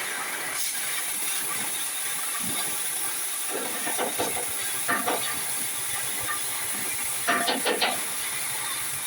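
A steady high hiss with short clusters of knocks and clatter about four, five and seven and a half seconds in.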